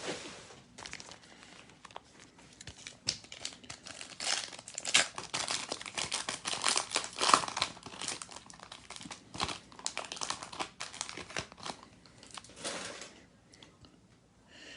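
Trading card pack wrapper being torn open and crinkled by hand, an irregular run of crackling that dies down near the end.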